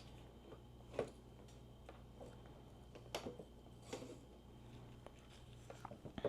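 Scattered light clicks and knocks of small motorcycle parts and tools being handled, about a second in, around three and four seconds in and a few together near the end, over a faint steady hum.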